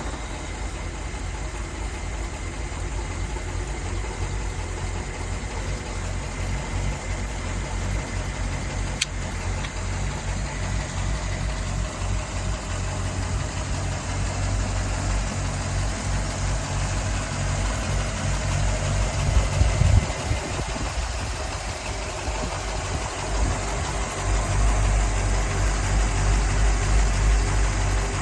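Car engine idling steadily just after starting, with a brief swell in level about twenty seconds in and a heavier low rumble near the end.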